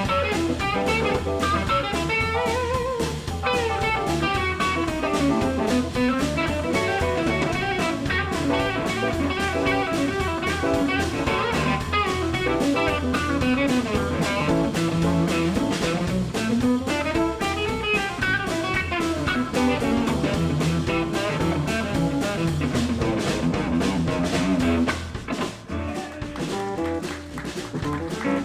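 Live blues band playing an instrumental break: guitar lines over bass and drum kit, the band dropping quieter near the end.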